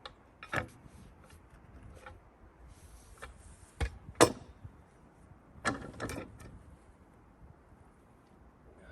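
Several sharp wooden knocks and thumps as a heavy fir timber is levered and rolled with a peavey, the loudest a little past four seconds in.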